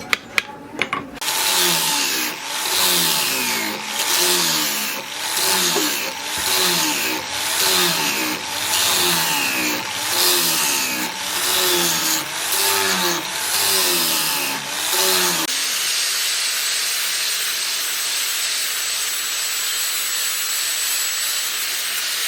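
A power tool worked in repeated passes, about one a second, its pitch dipping and rising with each stroke. Near the end this gives way to a steady hiss.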